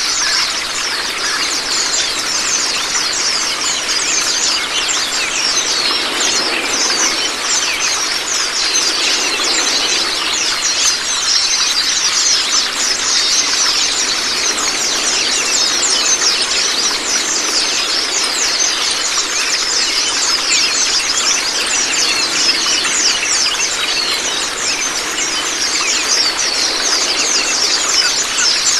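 Pleci (white-eye) birds twittering in a dense, rapid, high-pitched stream of chirps over the steady rush of running water: a water-therapy and master-song track for white-eyes.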